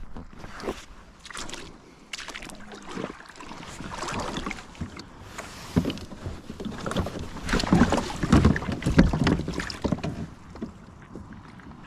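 A kayak on the water: irregular splashes and knocks of water and gear against the hull, busiest about eight to nine seconds in.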